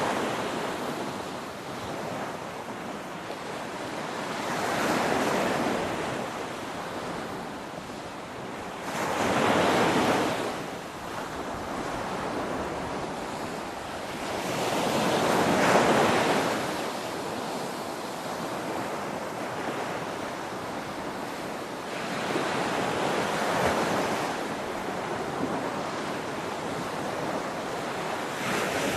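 Ocean waves breaking on a beach over a continuous hiss of surf, swelling and easing about every five to six seconds; five waves break, the loudest about a third and halfway through.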